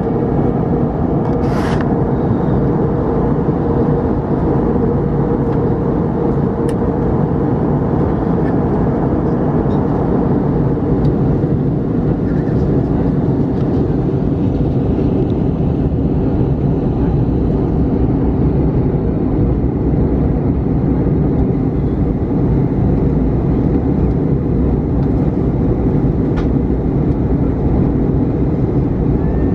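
Steady cabin drone inside an Airbus A321neo on descent, engine and airflow noise with a steady hum running through it. A brief click sounds about two seconds in.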